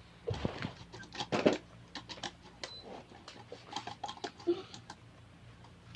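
Paper being cut with scissors and handled: a run of snips and crinkles, louder in the first second and a half, then smaller, quicker ticks.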